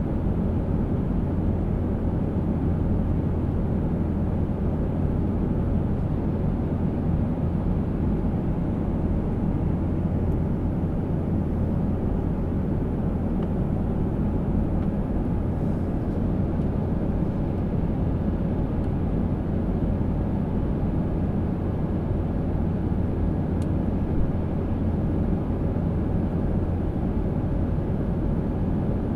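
Steady low rumble of an airliner's cabin in flight: engine and airflow noise, even throughout, with a faint steady hum above it.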